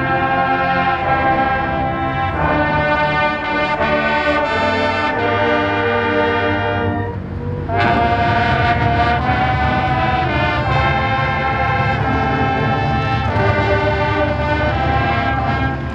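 High school marching band playing loud, sustained brass chords with drums underneath, the chords changing about every second; the sound drops away briefly about seven seconds in, then the full band comes back in.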